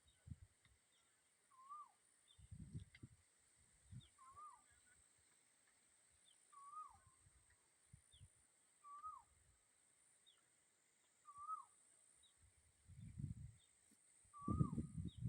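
A bird calling, a short rising-then-falling note repeated about every two seconds, with faint higher chirps behind it. Gusts of wind rumble on the microphone, the strongest near the end.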